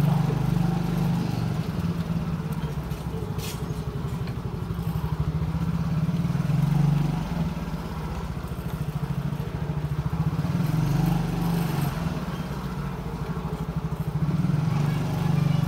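Motorcycle engine running while riding, its steady drone swelling and easing several times with the throttle. There is a short sharp click about three seconds in.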